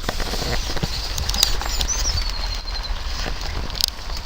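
Steady rain pattering, scattered drops ticking, with a few high chirps about two seconds in.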